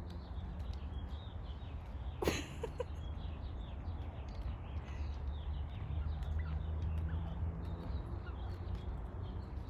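Small birds chirping faintly and repeatedly over a steady low rumble, with one sharp knock a little over two seconds in.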